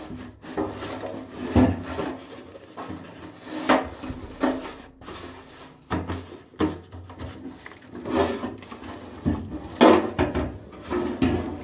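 Irregular knocks, clunks and short scrapes of parts and tools being handled during hands-on work on an old car.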